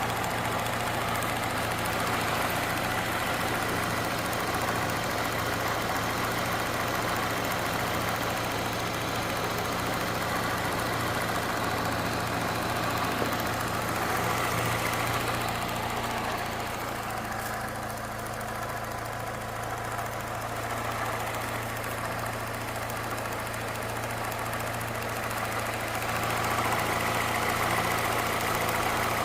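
Peugeot 207's 1.6 VTi four-cylinder petrol engine idling steadily with a ticking sound on the right side, whose cause the owner does not know.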